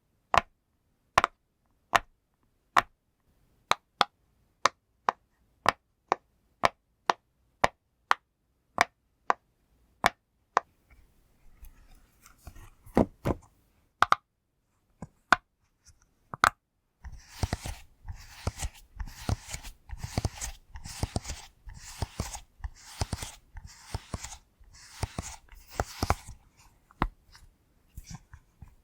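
Silicone pop fidget toy being pressed, its bubbles popping with crisp snaps about two a second. Past the middle the popping becomes a dense, rapid run with a rustling hiss for about ten seconds, then slows to a few single pops near the end.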